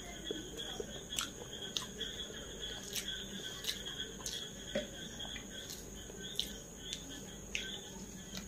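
Quiet chewing of a mouthful of rice, with soft irregular mouth clicks, and fingers mixing rice on a plate. A steady high-pitched background tone runs underneath.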